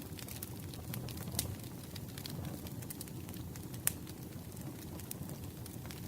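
Campfire burning: a steady low rumble of flames with irregular sharp crackles and pops of burning wood, two of them louder, about a second and a half in and near four seconds in.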